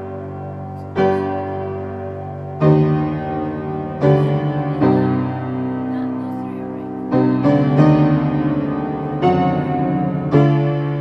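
Solo piano music: a slow sequence of sustained chords, a new chord struck every second or two and left to ring.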